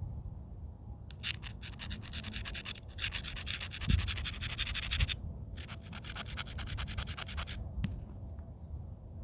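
Rapid scratching of stone rubbed against stone in two spells of a few seconds each, with a couple of dull knocks: the edge of a flint point being abraded during knapping.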